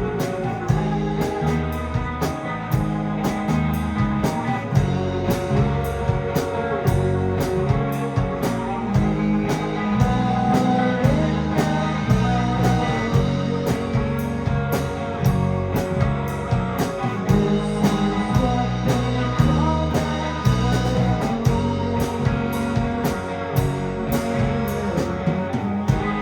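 Live rock band playing an instrumental passage: electric guitar, bass, keyboards and drums with steady, evenly repeated cymbal strikes. Right at the end the drums stop and a held chord rings on.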